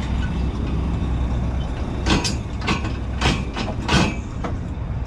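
Semi truck's engine idling steadily, with a handful of short, sharp sounds between about two and four and a half seconds in.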